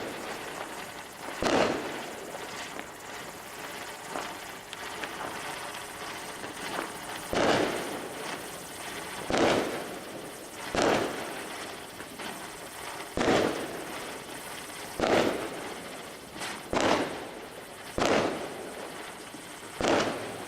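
Fireworks going off: about nine loud, sharp bangs at irregular intervals, each trailing off briefly, with a few fainter pops in between.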